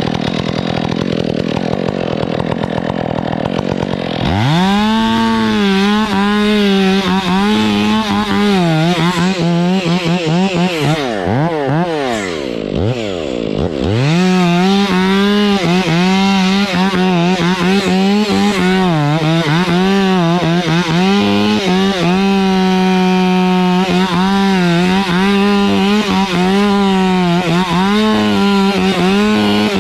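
Stihl chainsaw running at low speed, then opened to full throttle about four seconds in and held there, its pitch sagging and recovering as it cuts into palm wood. Near the middle the revs fall and climb again several times before it settles back at full speed.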